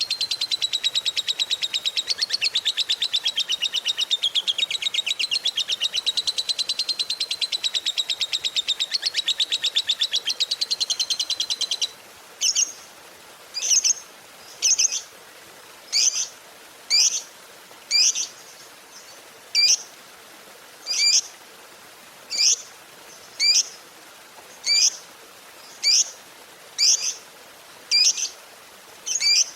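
Lovebird giving a long, rapid chattering trill (the 'ngekek panjang' prized in fighter lovebirds) for about twelve seconds. It then breaks off into single sharp, high calls at about one a second.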